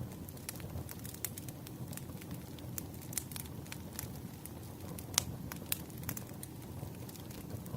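Wood fire crackling: a steady low rumble of burning logs with irregular sharp pops and snaps, the loudest pop about five seconds in.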